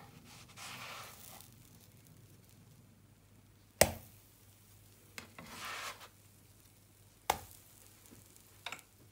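Kitchen knife cutting food on a cutting board: two short slicing strokes and a few sharp knocks of the blade on the board, the loudest just under four seconds in.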